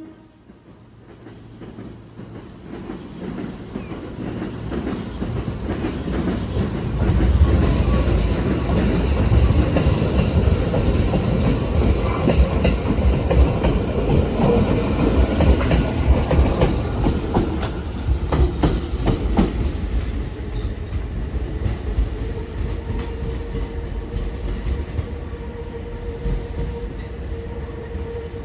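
205 series electric commuter train pulling away from a station, its rumble building from quiet to loud over several seconds. Wheels click over the rail joints as it passes, then it eases off, with a steady tone running under the later part.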